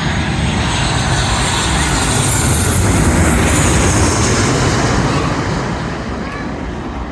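An airliner passing low overhead. Its engine noise swells to a peak about three seconds in and then fades away.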